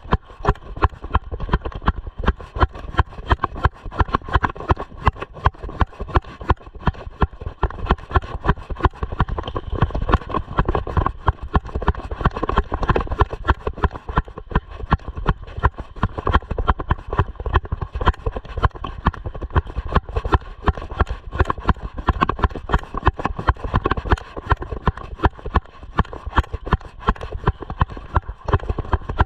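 Mountain bike clattering over a rough dirt trail: a constant stream of rapid, irregular knocks and rattles over a low rumble.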